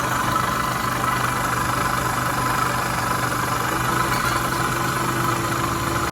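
Kymco Racing 150 scooter's single-cylinder engine idling steadily.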